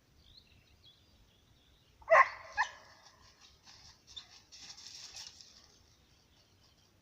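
A hunting hound gives two short barks, about half a second apart, followed by a brief rustle.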